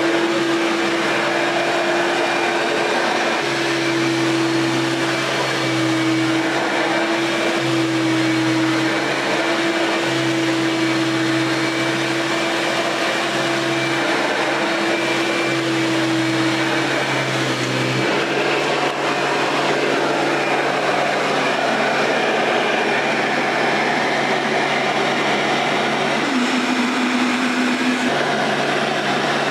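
Hoover Power Drive upright vacuum cleaner running steadily, its motor and brush roll making a loud, even whine. The steady tone in it drops out about 17 seconds in, and a lower tone comes in near the end.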